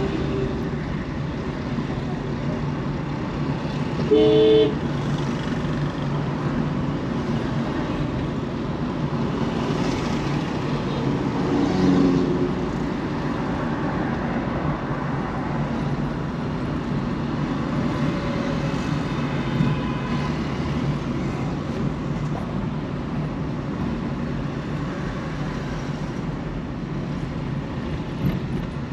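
Busy city road traffic: a steady rumble of engines and tyres, with a car horn honking once, briefly, about four seconds in.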